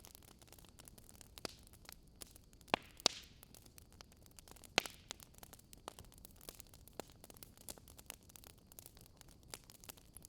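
Wood fire crackling: irregular sharp pops and snaps over a faint hiss, a few louder pops about three and five seconds in, with a brief swish near the three-second mark.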